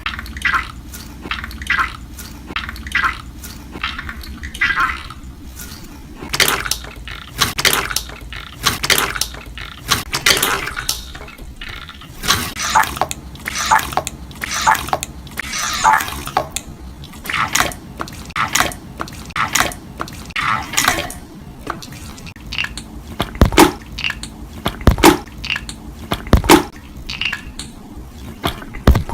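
Slime being pressed and worked by hand, giving a steady run of wet squelches and sticky popping clicks. Near the end come three deeper, louder pops.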